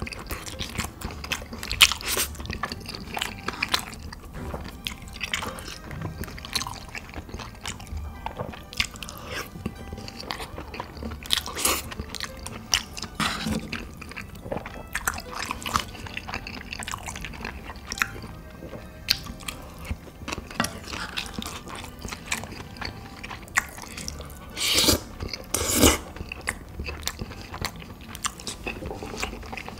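A person eating close to the microphone: steady chewing and biting with wet mouth smacks, and a few louder bites, two of them close together near the end.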